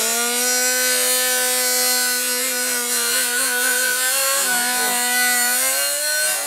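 Nitro RC monster truck's small two-stroke glow engine revving up sharply at the start and then held at high revs with a steady buzzing whine. It dips briefly about two-thirds of the way through, climbs a little near the end, then lets off.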